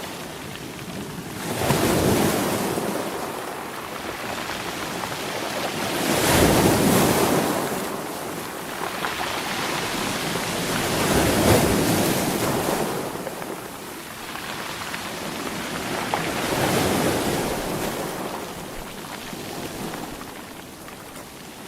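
Ocean waves breaking in a slow, even rhythm: four surges about five seconds apart, each swelling up and then fading away.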